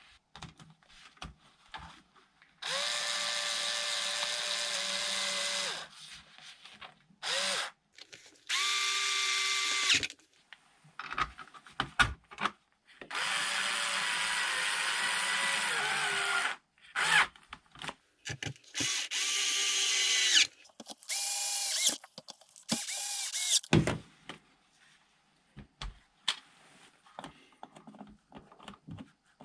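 Small power drill running in about seven short bursts, each a steady whine, the longest lasting about three seconds. Small clicks and knocks come between the bursts.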